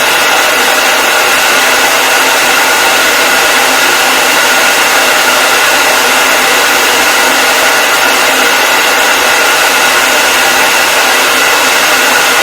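Hair dryer running continuously at a steady speed: an even, unchanging rush of air with a faint motor whine.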